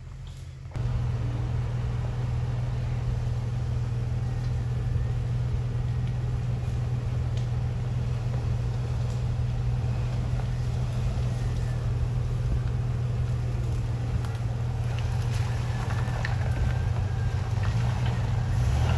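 Jeep Cherokee XJ's engine running steadily at low speed as it crawls along a rough wooded trail, a constant low hum that cuts in about a second in.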